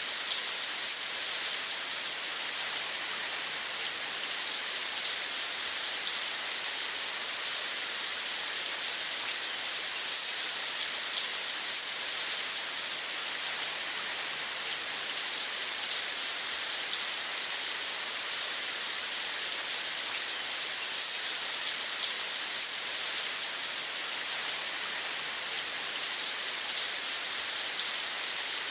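Steady rain falling: an even, unbroken hiss with a fine patter of drops.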